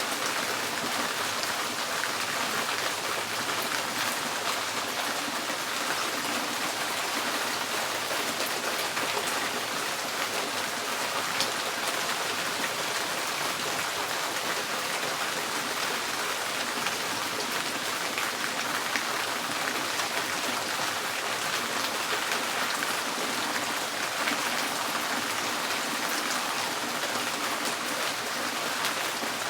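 Steady rain drumming on a tin roof: a dense, even patter of drops with the odd louder drip now and then.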